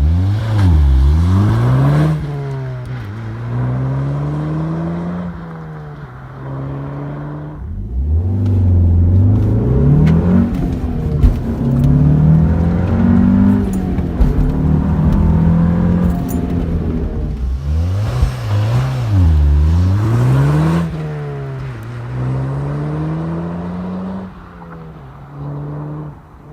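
Audi S1 Sportback's turbocharged 2.0-litre four-cylinder accelerating hard through the gears. The engine pitch climbs and drops back at each upshift, with quick rev dips and rises near the start and again about two-thirds through.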